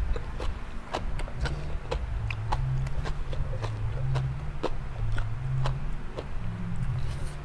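Close-up chewing of crunchy raw vegetables and salad, with irregular crisp crunches a few times a second over a low hum.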